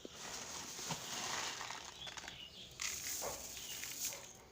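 Dry paddy grains poured and stirred into a bird seed mix, a rustling hiss that eases off after about three seconds, with a few faint bird chirps.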